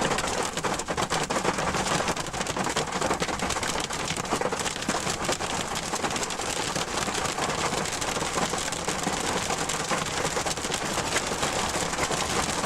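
Hail and heavy rain pelting down in a hailstorm: a dense, steady clatter of many small impacts that does not let up.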